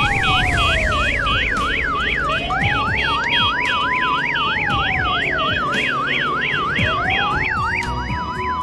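Electronic police siren of a toy police car: a fast yelp sweeping up and down about three times a second over a slower wail that falls and rises over several seconds, with rapid high beeping on top.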